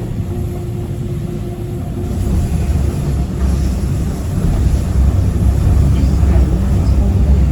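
Docklands Light Railway light metro train running, heard from the front of the car: a low rumble of wheels on the rails that grows louder and rougher about two seconds in.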